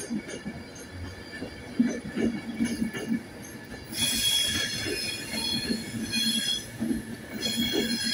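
Class 390 Pendolino electric train rolling slowly over the station trackwork, its wheels knocking irregularly over the rail joints. From about halfway, a loud high-pitched wheel squeal sets in; it breaks off briefly near the end and starts again.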